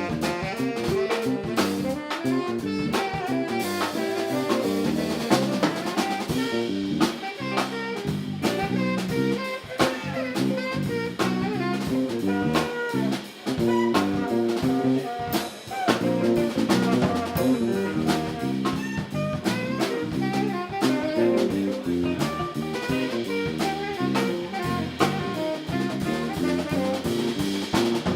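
Live band playing an instrumental funk groove, with drum kit and horns.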